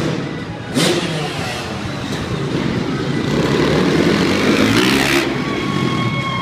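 Dirt bike engine revving up and down during a freestyle motocross run, with a sharp sudden noise about a second in and a steady high-pitched tone near the end.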